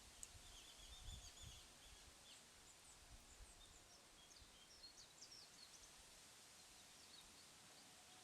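Faint outdoor ambience with small birds chirping repeatedly in short high calls, and some low rumbling during the first few seconds.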